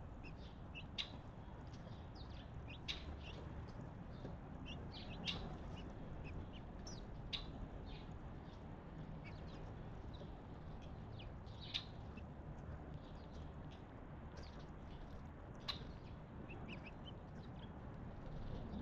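Small wild birds chirping and calling at a feeding spot: short, high chirps scattered throughout, a few sharper and louder ones standing out every few seconds, over a steady low background rumble.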